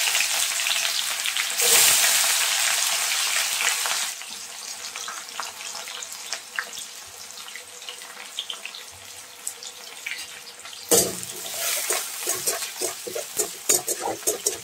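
Hot oil in an aluminium wok sizzling loudly as onions go in, with a second surge about two seconds in, then settling to a quieter sizzle. About eleven seconds in the sizzle flares up again, and a spatula starts scraping and stirring against the wok in quick strokes.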